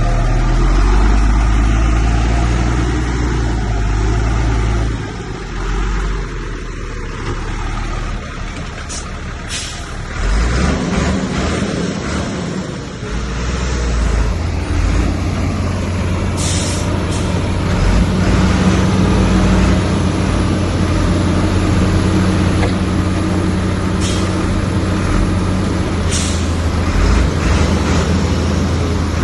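Heavy diesel engine of earthmoving machinery running steadily under load, changing pitch about ten seconds in, with a few short sharp hisses or clanks.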